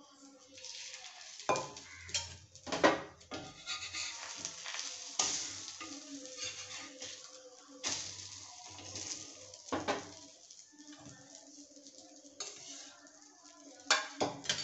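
Egg-dipped bread slices sizzling in oil on a flat griddle, while a metal spatula scrapes and knocks against the pan as the slices are flipped. There are several sharp clatters, the loudest about three seconds in and a pair near the end.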